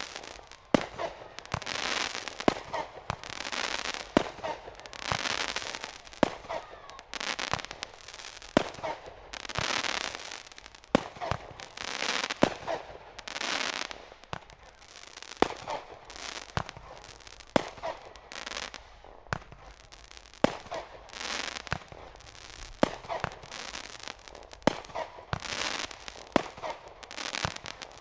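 Class C consumer aerial fireworks firing in quick succession: sharp bangs about once or twice a second, with short bursts of hiss between them.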